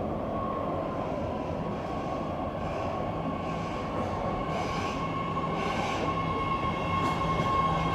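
BART Fleet of the Future five-car train pulling into the station platform: a dense rumble of wheels on rail, with a steady high whine that sets in under a second in and grows stronger toward the end.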